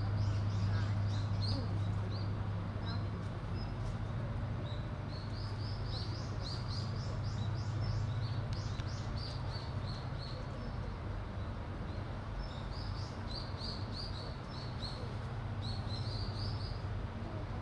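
Small birds chirping, short high notes repeated in quick runs throughout, over a steady low hum.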